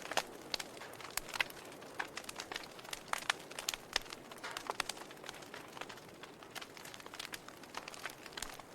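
Wood fire burning in a fireplace: logs crackling and popping in quick, irregular snaps over a soft steady hiss.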